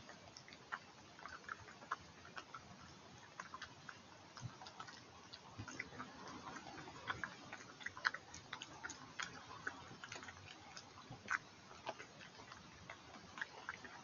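A badger eating, its chewing heard as irregular clicks and crunches over the steady hiss of a stream.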